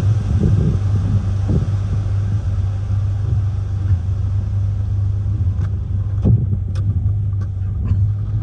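Hurricane-force wind buffeting a car, heard from inside the cabin as a steady low rumble with rushing gusts. A few sharp taps strike the car in the second half.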